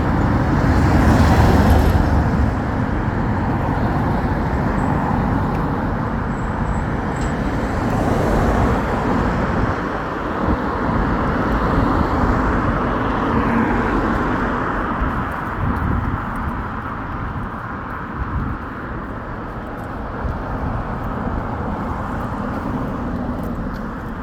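Road traffic passing a roadside: engines and tyre noise of passing vehicles, with no voices. It is loudest about a second in and slowly quietens over the last third.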